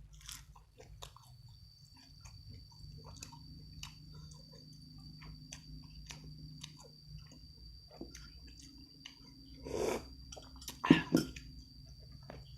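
Close-miked chewing of food: soft wet smacks and small clicks of the mouth, with a louder burst about ten seconds in and two sharp, loud bites or crunches about a second later.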